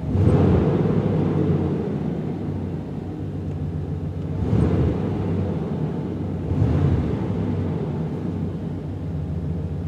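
1989 truck's engine breathing through a single-in, dual-out Jones Max Flow muffler exhaust, heard from inside the cab: idling steadily with three short throttle blips, the biggest right at the start, then about four and a half and nearly seven seconds in. It sounds pretty quiet in the cab.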